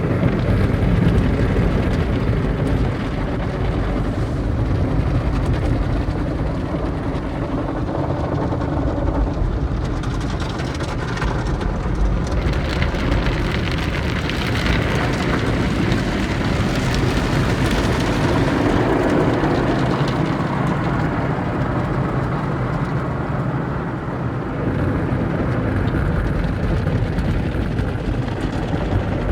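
Automatic tunnel car wash heard from inside the car's cabin: a steady wash of water spray and equipment working against the bodywork, swelling and growing hissier for several seconds midway.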